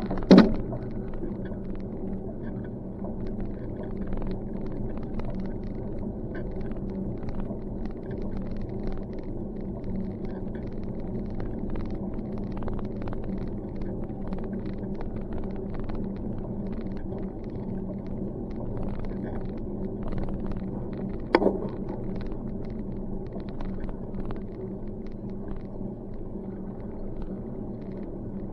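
Steady rumble of a bicycle rolling along a road, heard from the moving bike, with a sharp knock at the start and another about 21 seconds in.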